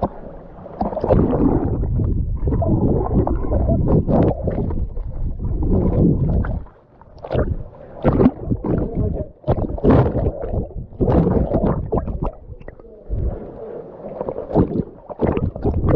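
Muffled sea water sloshing and splashing close to the microphone, in uneven surges.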